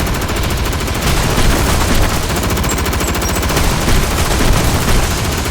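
Gatling gun firing one continuous rapid burst: a dense, unbroken stream of shots.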